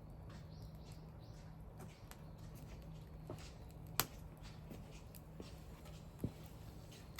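Wood bonfire crackling, with scattered sharp pops and ticks; the loudest pop comes about four seconds in.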